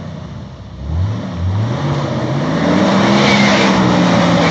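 Jeep Wrangler TJ engine revving: two quick rising blips about a second in, then climbing and held at high revs to the end.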